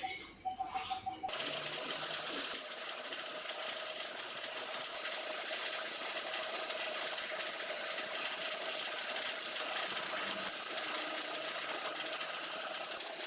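A steady, loud hissing spray that starts suddenly about a second in and runs on evenly, with a faint steady whine under it.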